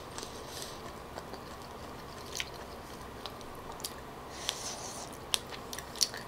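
Close-up chewing and biting of a soft, chewy tteokbokki rice cake, with wet mouth sounds and a few sharp clicks.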